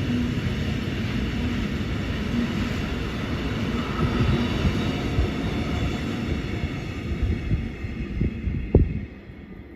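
A container freight train rolling past, its wagons' wheels rumbling and thumping over the rails, with one sharp clank near the end. The noise then drops off suddenly as the train draws away.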